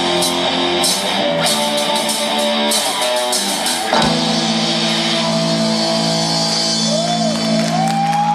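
Live rock band playing an instrumental ending: guitars and a drum kit, with cymbal crashes in the first three seconds, then a hit about four seconds in and a held, ringing final chord with a lead line bending over it near the end.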